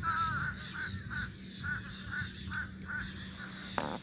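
Birds giving a run of short, repeated calls, about two to three a second, over a steady low hum, with a sharp click near the end.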